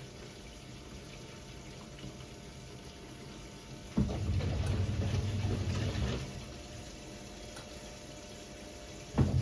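1978 Siemens WA4600 front-loading washing machine in its wash cycle: a low steady hum, then about four seconds in the drum turns for about two seconds with water and laundry sloshing, stops, and starts turning again near the end.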